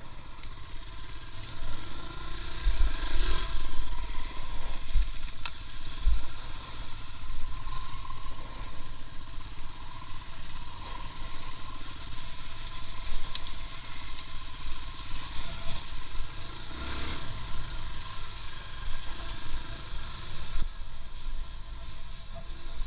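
A vehicle engine running steadily while under way, with rattling and clatter and a few heavy low thumps, the first a few seconds in and another later on.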